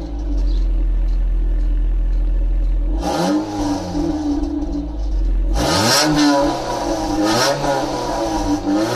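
Modified 2002 Ford Focus 1.6 petrol engine, fitted with an enclosed air filter, idling steadily. From about three seconds in it is revved up and let fall back several times.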